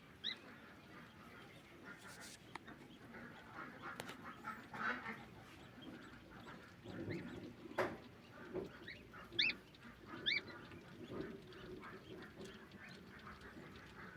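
Pekin ducklings peeping from inside pipping eggs: a few short high peeps, the two clearest about a second apart after nine seconds, with a couple of faint sharp clicks.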